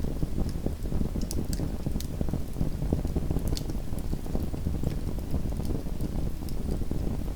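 Small wood fire burning in a fireplace: a steady low rumble of flames with scattered sharp crackles and pops.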